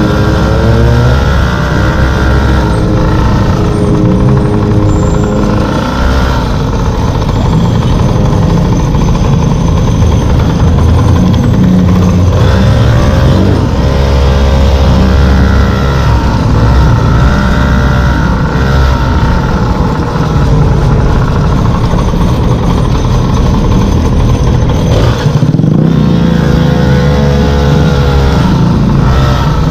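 Small two-stroke engine of a gas-powered stand-up scooter running under way, its pitch rising and falling with the throttle several times, over a heavy steady low rumble of wind.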